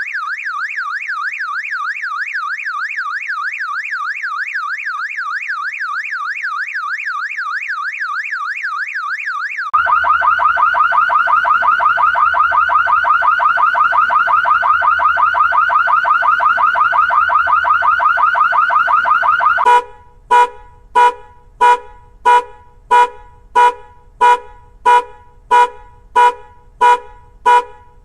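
Car alarm cycling through its tones. First comes a quick up-and-down warble, then about ten seconds in a louder, faster warble. About twenty seconds in it switches to a run of short horn beeps, about three every two seconds.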